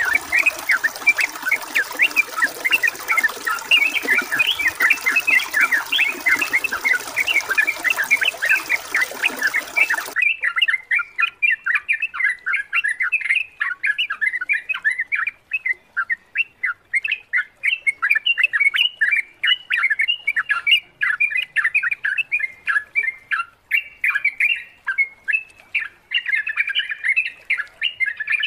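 Yellow-vented bulbuls chattering in a fast, unbroken stream of short chirps. A steady rush of running water lies under them and cuts off suddenly about ten seconds in.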